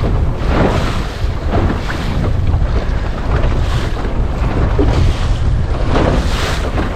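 Wind buffeting the microphone with a heavy steady rumble, over waves splashing repeatedly against the hull of a small centreboard sailing dinghy driven hard in gusty wind.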